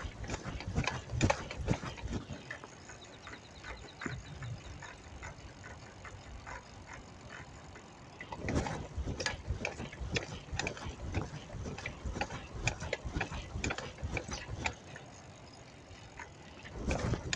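Bicycle clicking and rattling while being ridden, with many irregular sharp clicks and knocks and a brief run of rapid even ticking from the freewheel ratchet.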